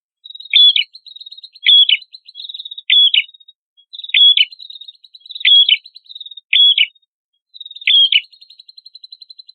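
Prenjak kepala merah songbird singing: loud, sharp chirps repeated about once a second, with fast, thin, high trills running between them.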